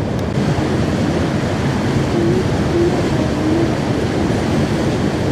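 Steady low rumble and rushing noise of a river passenger motor ship under way.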